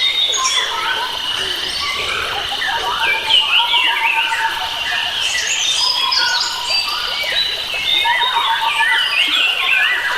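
Dense chorus of wild forest birds: many overlapping chirps, whistled glides and short phrases, with steady trilling running underneath.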